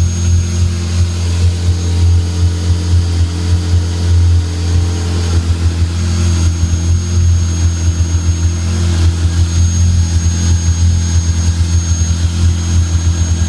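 1998 Ferrari F355 F1's V8 idling through an exhaust with no muffler, only custom pipes on the stock headers, with a thin steady high-pitched whine from the secondary air pump running over the idle.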